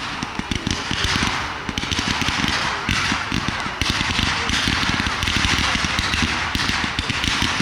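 Fireworks bursting in rapid succession: a dense, continuous run of booms and crackling with no pause.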